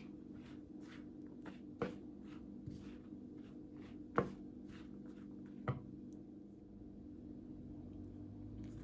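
Thick buckwheat-flour and chopped-pumpkin batter being mixed in a bowl: soft, rhythmic strokes about twice a second, with three sharper clicks of the utensil against the bowl, and the stirring fading out after about six seconds.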